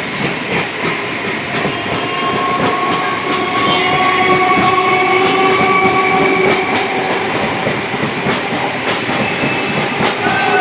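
Electric MEMU train pulling out and rolling past close by: steady wheel clatter over the rail joints, with a whine that rises slowly in pitch as it gathers speed.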